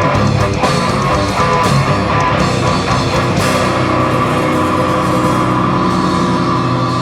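Live heavy rock band playing an instrumental passage: distorted electric guitars sustaining chords over bass and drums, with no singing.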